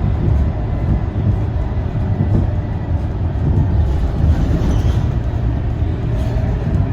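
Scania K230UB city bus with its 9-litre five-cylinder diesel running under way, a steady low rumble of engine and road noise.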